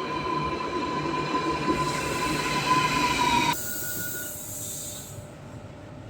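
Spanish electric commuter train in motion: a steady high whine with several pitched tones over a rumble of wheels on rails. About three and a half seconds in the whine cuts off suddenly, leaving a brief hiss and a quieter hum.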